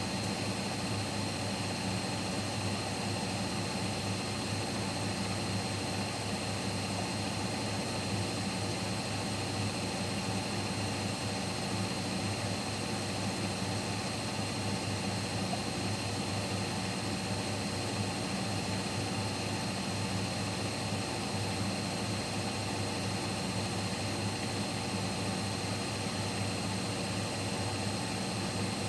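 Siemens Siwamat Plus 574 front-loading washing machine in its final spin at 800 rpm: a steady, even drum-and-motor hum with a thin high whine, holding constant speed.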